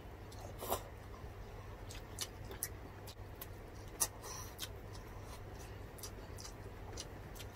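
Close-miked chewing and wet mouth clicks of people eating rice and grilled milkfish with their hands: a scatter of small smacks and clicks, the sharpest just under a second in and about four seconds in.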